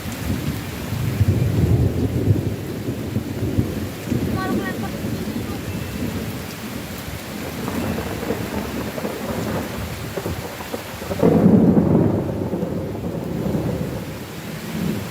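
Thunderstorm: steady heavy rain with rolling thunder rumbling low throughout, swelling to its loudest peal about eleven seconds in.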